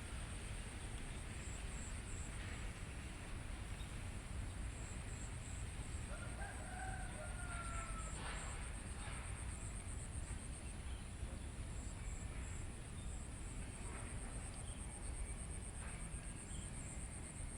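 A rooster crowing once, about six seconds in: a single drawn-out call lasting about two seconds that falls slightly in pitch.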